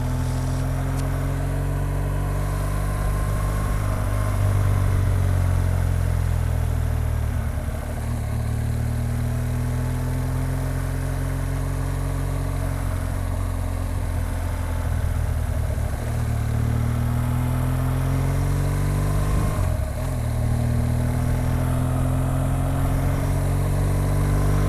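BMW R 1200 GS Adventure's flat-twin engine pulling the motorcycle along the road, its pitch climbing slowly and dropping back several times as it shifts up through the gears.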